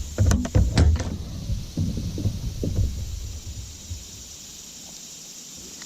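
Wind buffeting the microphone in strong gusts, a heavy rumble that eases off after about three and a half seconds into a steady hiss. A few sharp knocks in the first second.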